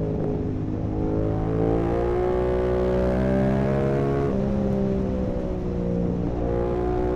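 Yamaha R7's 689 cc parallel-twin engine through an Akrapovic full carbon exhaust, under way: the revs climb for about four seconds, drop sharply at an upshift, then hold a lower, steady note.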